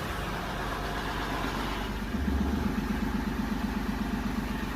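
Mahindra Bolero Neo's three-cylinder diesel engine idling just after a cold morning start, with a rapid even diesel chatter. It runs a little louder and deeper from about two seconds in.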